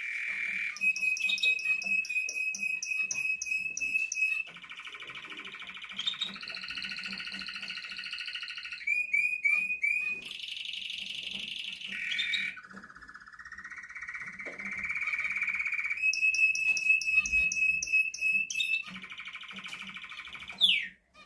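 Male red-factor canary singing a long continuous song: rapid trills alternate with rolling, buzzy held phrases, and the phrase changes every few seconds. It ends with a quick falling note.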